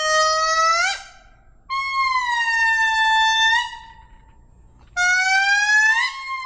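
An animal's long, clear wailing calls, three of them, each sliding slowly in pitch. The first rises at its end, the second is longer and slightly falling, and the last rises and runs straight into another note.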